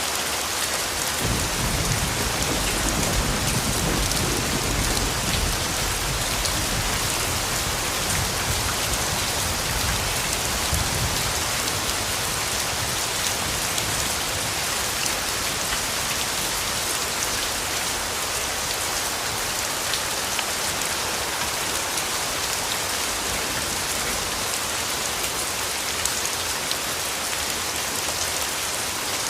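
Steady rainfall pattering on foliage and ground. A low rumble of distant thunder comes in about a second in and dies away over the next ten seconds.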